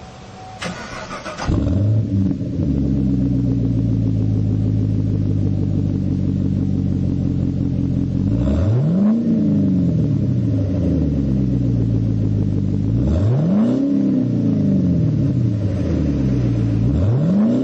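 2010 Chevrolet Camaro SS 6.2-litre V8 cranked on the starter and catching about a second and a half in, then idling steadily. Three quick throttle blips follow, a few seconds apart, each rising and falling in pitch.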